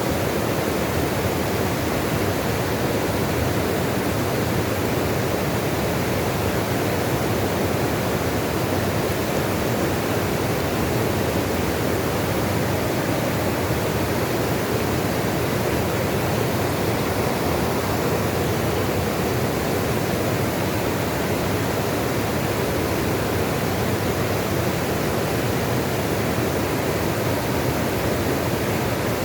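Rushing water running steadily: an even, unbroken noise with no changes.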